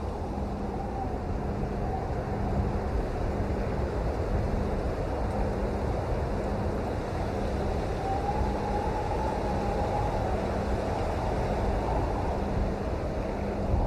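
Steady, heavy rain: an even, unbroken hiss with a deep rumble.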